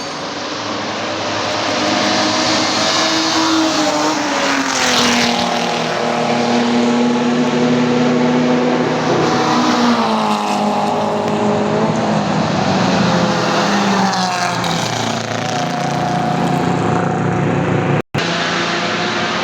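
Classic racing cars' engines running hard past the track, several engines at once, their pitch rising and falling as they accelerate, shift and pass. The sound cuts out for an instant near the end.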